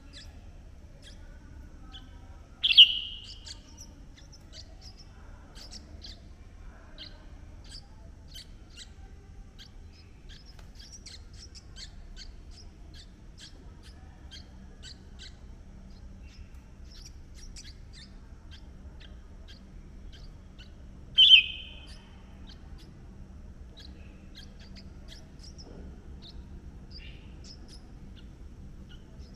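Birds calling: two loud, short calls, one about three seconds in and one about twenty-one seconds in, with many faint, high, quick chirps in between, over a steady low background rumble.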